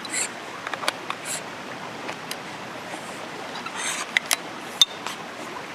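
Steady hiss of rain, with scattered sharp clicks and taps breaking through it at irregular moments, one louder tap near the end.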